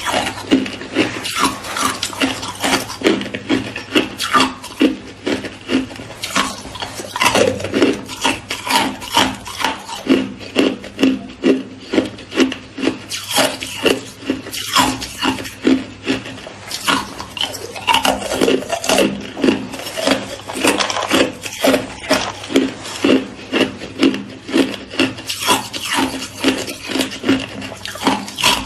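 A person chewing and crunching hard white ice close to the microphone, a steady run of crunches about two to three a second.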